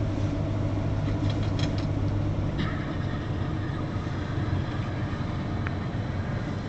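1968 GMC 3500's 327 V8 running steadily at idle, seconds after a cold start after sitting about a month.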